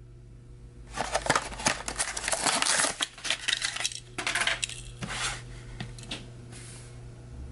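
Blister packaging of a carded toy diecast car being handled: a stretch of dense crackling and clicking from the plastic bubble and card, fading out after about five seconds.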